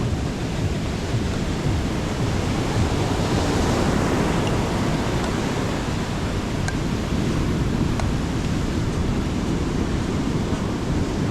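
Sea waves breaking and washing on a beach, a steady surf noise that swells a little midway, with wind on the microphone.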